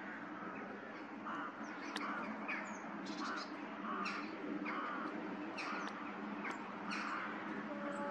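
Several birds calling, short calls coming about twice a second, over a steady low hum.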